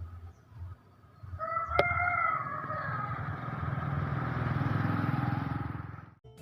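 A motorcycle passing, its engine growing louder and then fading away, with a rooster crowing once over it about a second and a half in.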